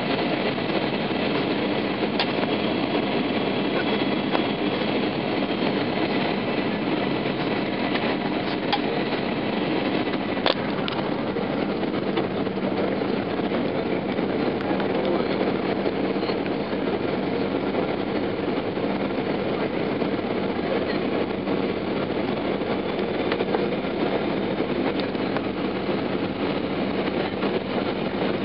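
Boeing 737-800 cabin noise in flight: the steady rush of air and engine noise with a constant low hum, and a few faint clicks.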